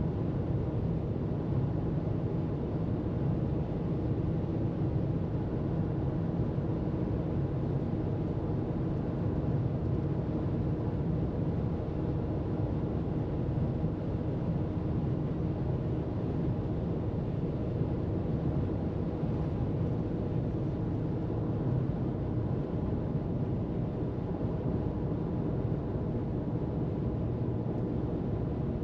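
Steady road noise of a car cruising on a freeway: an even low rumble of tyres and engine with no breaks or changes.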